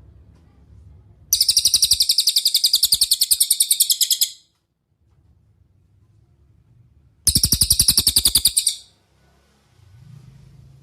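Cililin bird singing two rapid, high-pitched trills of evenly repeated notes, about ten a second: the first lasts about three seconds, the second about a second and a half.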